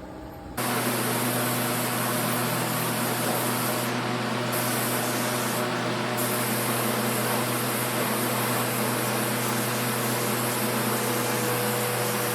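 Compressed-air paint spray gun spraying, starting suddenly about half a second in as a loud, steady hiss over a low steady hum; the top of the hiss thins briefly twice, around four and six seconds in.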